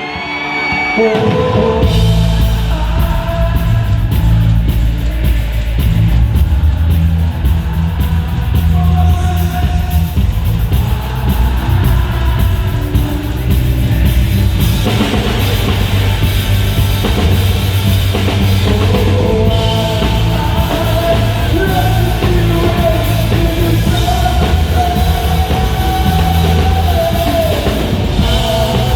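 Live rock band playing loud, with drum kit, bass and a singing voice. The full band comes in about two seconds in, after a quieter sung passage.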